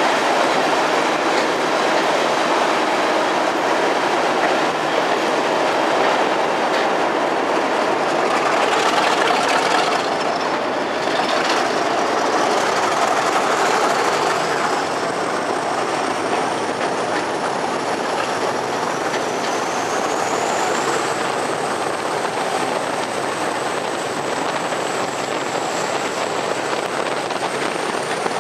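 Train running steadily along the track with rail clatter, and a thin high wheel squeal that starts about a third of the way in and rises in pitch.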